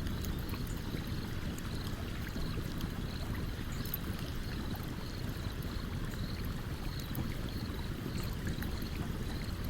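A stream running steadily, with a campfire crackling over it in scattered sharp pops. A faint high chirp repeats about twice a second.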